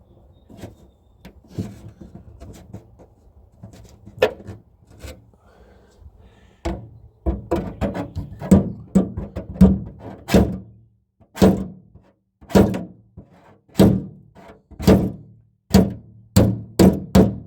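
A run of hard metallic-body thunks and knocks from working on a '57 Chevy's trunk lock and lid: light clicks at first, then loud thunks about once a second from a third of the way in, coming quicker near the end.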